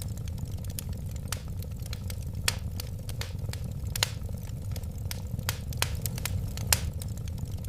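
Wood fire burning, a steady low rumble under irregular sharp crackles and pops, several a second, with a few louder pops standing out.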